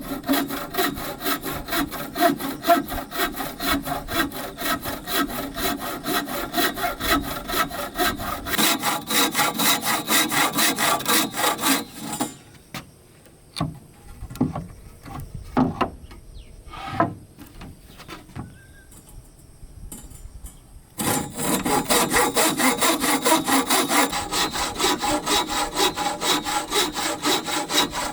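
Wood being sawn in quick, even, repeated strokes. The sawing stops about twelve seconds in, giving way to a few scattered knocks and taps, and starts again about twenty-one seconds in.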